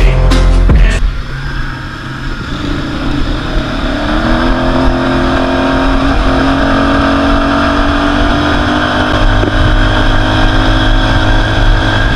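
Quad bike (ATV) engine under way. It eases off about a second in, then revs up over the next couple of seconds and holds a steady pitch.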